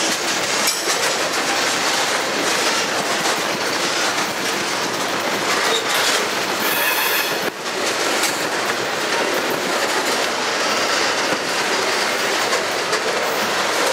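Freight-train tank cars rolling past close by: a steady, loud rumble of steel wheels on rail, with clacks over the rail joints. A brief high wheel squeal comes about seven seconds in.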